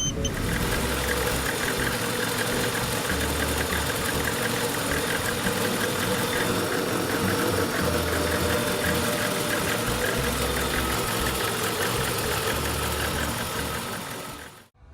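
VAZ 21099 (Lada Samara) fuel-injected four-cylinder engine idling steadily with a fast light ticking, running again just after a start now that its fuel pump works. It cuts off abruptly near the end.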